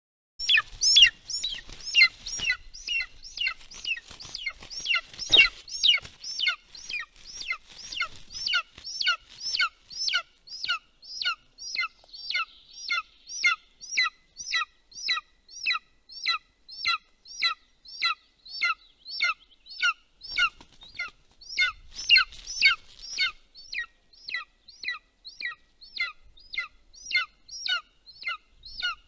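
Golden eagle chick begging for food: a steady, regular series of short, high, piping calls, about two a second. There is some rustling and bumping in the nest in the first few seconds and again around twenty seconds in.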